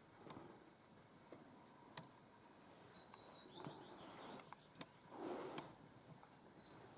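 Quiet, with a faint songbird singing one short phrase of high notes that step down in pitch and end in a brief trill, about two seconds in. Scattered soft clicks and a short rustle come later.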